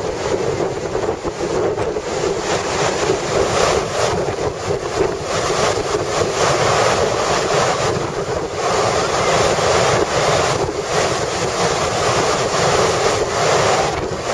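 Storm-force wind rushing and buffeting the microphone, loud and continuous with gusts that swell and ease.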